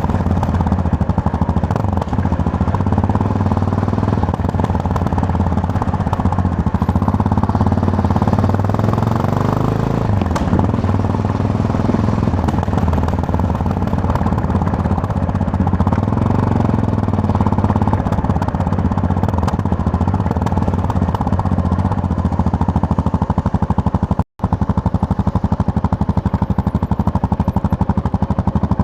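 Yamaha MT-03 motorcycle engine running under way with a steady pulsing exhaust note. Its pitch sags about a third of the way through, then picks back up. The sound drops out for an instant near the end.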